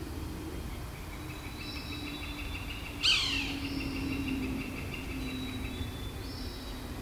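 Wild birds calling in woodland: short high notes repeating every couple of seconds over a faint trill. About three seconds in comes one loud, sharp call that sweeps quickly downward in pitch.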